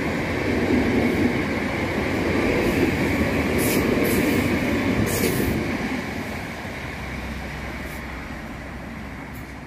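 A South Western Railway electric multiple unit running along the track and away, its wheel-on-rail rumble steady at first and then fading from about six seconds in. A few brief sharp clicks come around the middle.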